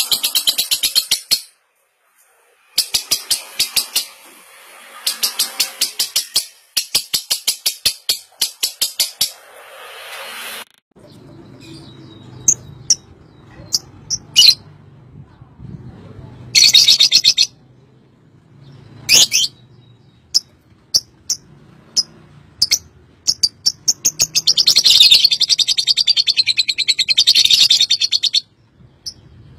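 Lovebirds giving the long 'ngekek' chatter: runs of very fast, high-pitched repeated notes in several long bursts, with single sharp chirps between them and a faint low hum beneath from about eleven seconds in.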